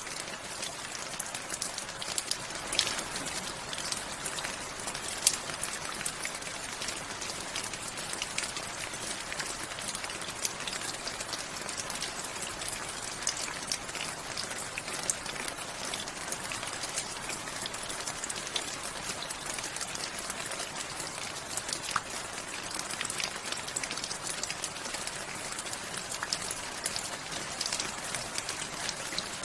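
Steady rain falling, a continuous hiss with many close individual drops ticking on a surface.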